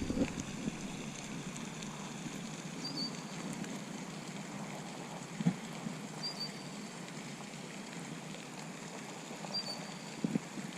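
Steady outdoor hiss of water or light rain, with a faint short high chirp repeating four times, about every three seconds, and a small knock about halfway through.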